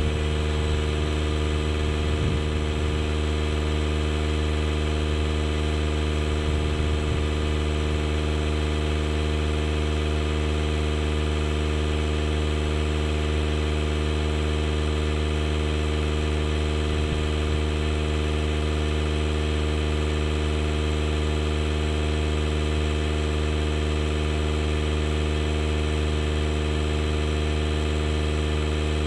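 DeWalt DCC020I cordless air inflator's compressor running steadily, with an even motor drone, while it pumps a large truck tire up toward its 30 psi setting.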